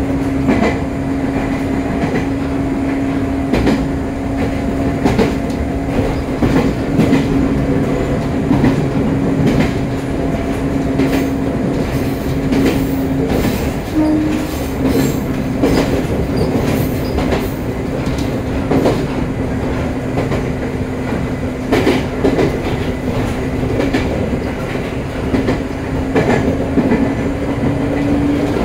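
Running sound of a Joshin Electric Railway electric train at a steady pace: a steady hum with wheels clicking over rail joints at irregular intervals. The hum briefly rises in pitch about halfway through.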